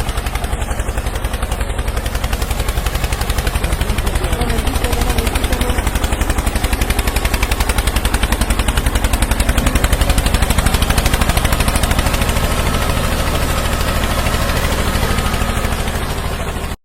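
A tractor-style engine putting rapidly and steadily. It cuts off suddenly at the end.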